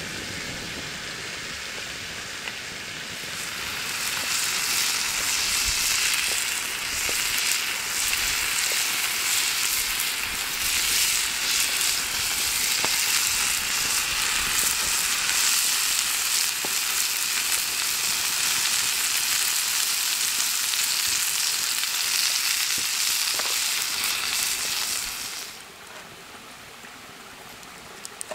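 Food frying in hot oil, a dense crackling sizzle that swells about three seconds in and falls away sharply near the end.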